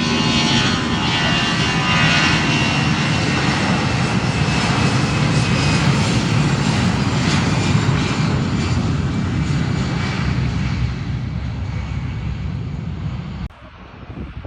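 Jet airliner engines running loud, with a high whine over a deep rumble. The sound eases off after about ten seconds and drops away abruptly near the end.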